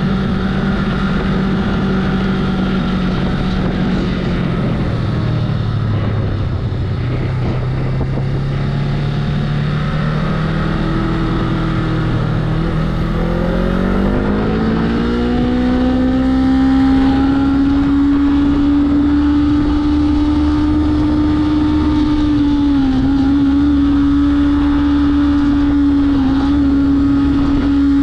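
2019 Honda Rebel motorcycle engine heard from the rider's seat: its note sinks as the bike slows, climbs steadily as it accelerates from about halfway through, then holds steady at cruising speed. Wind noise on the microphone runs underneath.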